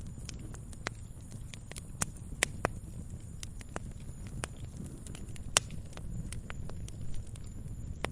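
Wood fire crackling in a fireplace: irregular sharp pops and snaps over a low steady rumble of the flames, with one louder pop about halfway through.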